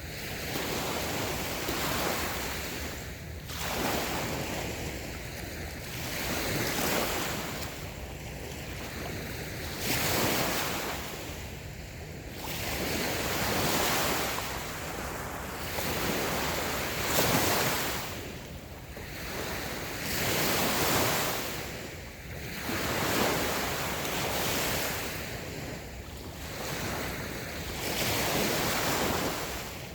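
Small waves washing onto a sandy beach, the surf swelling and falling back every two to three seconds, with a little wind on the microphone.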